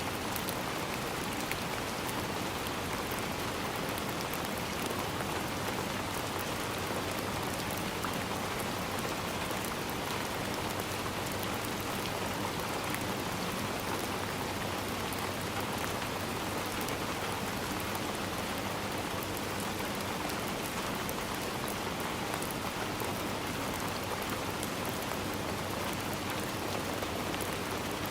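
Steady rain falling through trees, an even patter of many drops with no letup.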